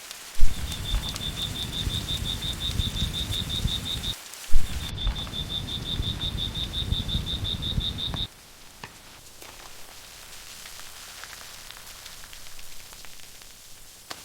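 Rain ambience with a rapid, high-pitched pulsing chirp from a calling animal, about six pulses a second, over a low rumble. Each of its two stretches opens with a loud sudden thump. It stops about eight seconds in, leaving only a faint hiss.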